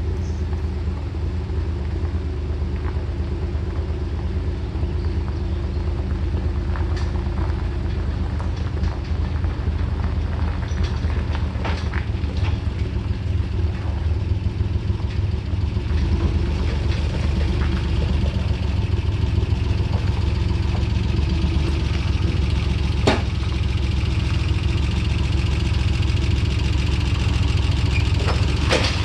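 An engine idling steadily, with a low even rumble and a few light clicks.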